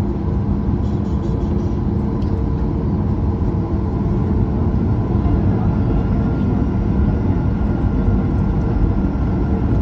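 Cabin noise inside a Boeing 737 MAX 8 rolling on the ground after landing: a steady low rumble of the CFM LEAP-1B engines at idle and the airframe, with a faint steady hum running through it.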